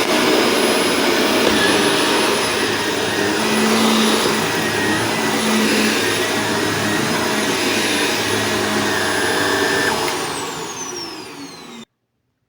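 Shark vacuum cleaner running steadily, its motor and airflow working again after the whole machine was cleaned. About ten seconds in it is switched off and the motor whine falls in pitch as it winds down.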